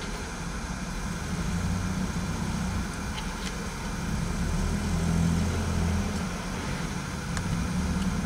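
Vehicle engine idling, a steady low hum heard from inside a car's cabin. The hum swells for a second or two about five seconds in.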